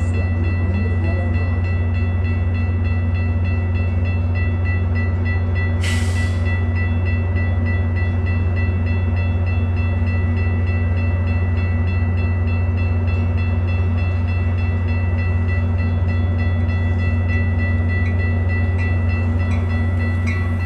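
A Metra diesel commuter train stands at the platform with its engine idling in a loud, steady low hum. A short hiss of air comes about six seconds in.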